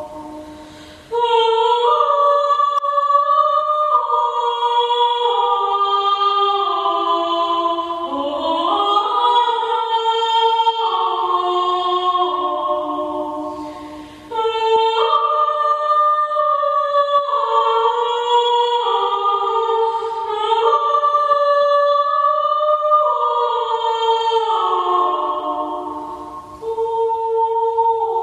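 Slow choral music: several voices, or voice-like tones, hold long sustained chords that shift step by step, in long phrases with short breaks between them.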